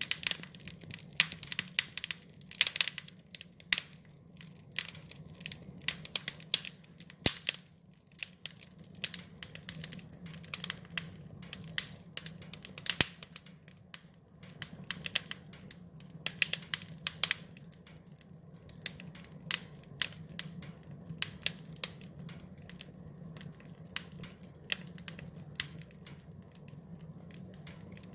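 Wood fire crackling, with irregular sharp snaps and pops of varying loudness over a low, steady rumble.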